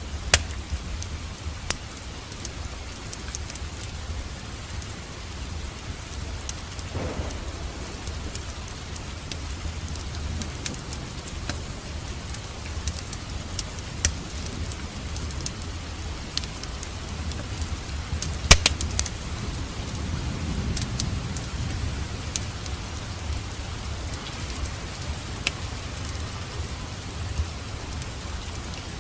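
Steady rain with a low rumble of thunder underneath that swells about twenty seconds in. Scattered sharp crackles from a wood fire in a fireplace come through, the loudest about eighteen seconds in.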